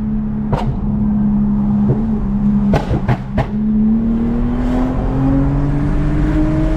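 Toyota Mark X V6 with a modified exhaust running in gear: a steady engine note with a quick cluster of sharp cracks about three seconds in, then the note climbs steadily as the car accelerates.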